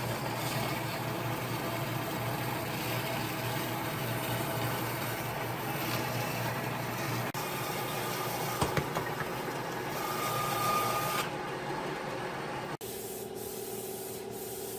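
Steady, rough hissing noise of a power tool working wood, changing abruptly about seven seconds in and again near the end.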